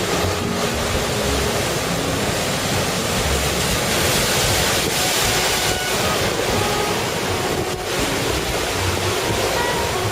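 Heavy typhoon surf breaking, a continuous rush of waves with strong wind buffeting the microphone, swelling louder around the middle.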